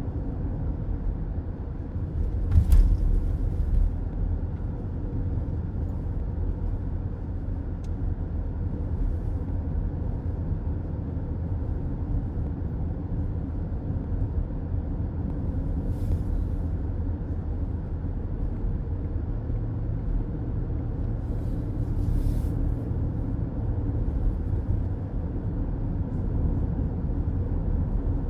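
Steady low road and engine rumble of a car driving on a highway, heard from inside the cabin, with one thump about three seconds in and a couple of faint swishes later.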